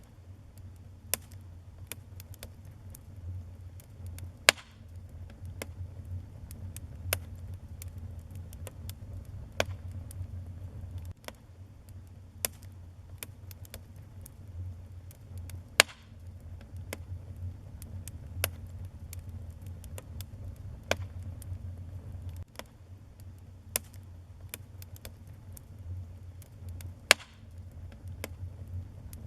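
Wood fire burning in a fireplace: a low steady rumble with irregular sharp crackles and pops throughout, a few of them much louder than the rest.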